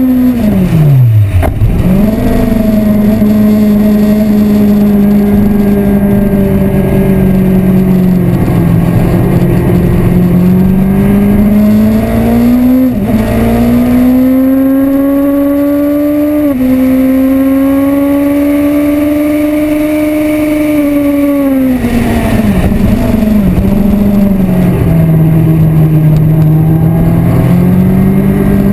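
Yamaha R1 sport bike's inline-four engine at full track pace, heard from onboard. Its pitch falls steeply about a second in as the rider slows and downshifts for a corner, then climbs with sudden steps at gear changes, and falls again about three quarters of the way through before picking back up.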